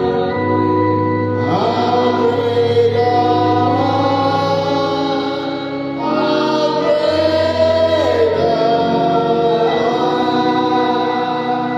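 Gospel music: voices singing a slow, drawn-out melody over steady held chords.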